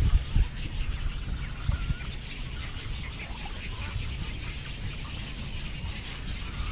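Many birds chirping and chattering in a mangrove, a busy mix of short calls with a brief whistled note about two seconds in. Low thumps and rumble sit underneath, strongest at the start.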